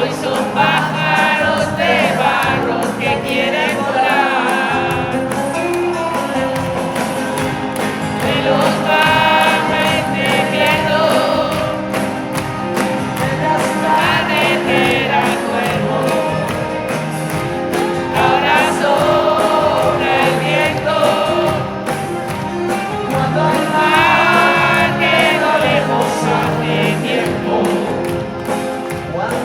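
Live pop-rock band music in a concert hall, with voices singing over the band.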